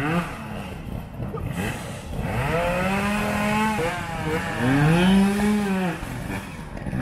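Trials motorcycle engine revving, with two long rises and falls in pitch, about two and a half and four and a half seconds in.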